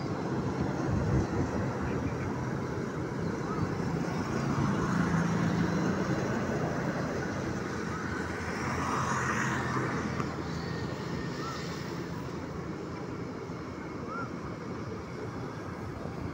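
Passenger train of coaches on the track giving a steady mechanical rumble with a low hum.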